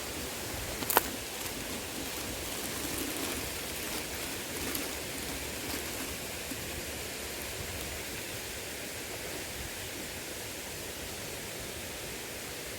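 Small river water flowing steadily, with one sharp click about a second in.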